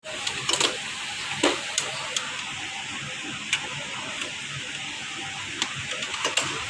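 Ricoh MP 3555 copier running: a steady hiss with scattered sharp clicks.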